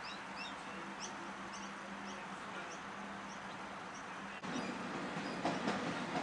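Small bird chirping over and over in short, high, rising notes against a steady outdoor background. About four and a half seconds in, the sound cuts abruptly to a louder, rougher noise with a few sharp knocks.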